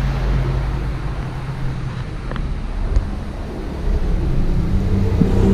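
Low, steady rumble of road traffic with a vehicle engine humming, and some wind on the microphone.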